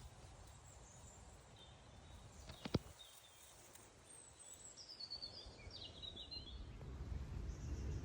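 Faint outdoor ambience with a few short, high bird chirps in the middle, a single sharp click about two and a half seconds in, and a low rumble building near the end.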